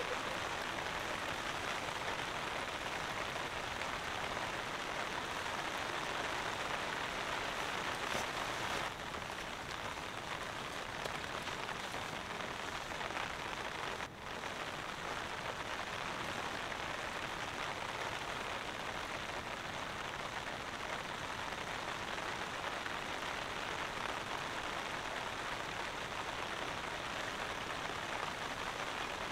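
Steady rain falling, a dense, even pattering hiss of drops, with two brief dips at about nine and fourteen seconds in.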